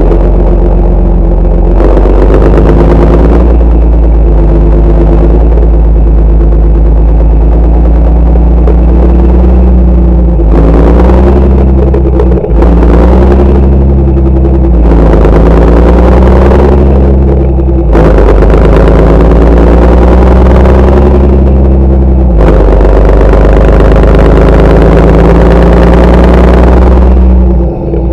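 Farm tractor's diesel engine running loud and steady under load while ploughing, its pitch stepping up and down several times.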